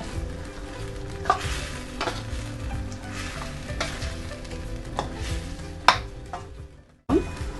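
Spoon stirring spice powders into chicken gravy in a pan, scraping and knocking against the pan while the gravy sizzles. One knock about six seconds in is loudest, and the sound cuts out briefly near the end.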